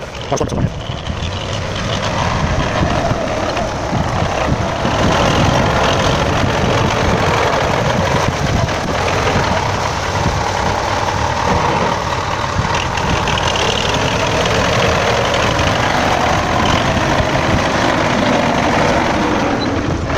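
MTZ-82 tractor's diesel engine running steadily while it works the ground.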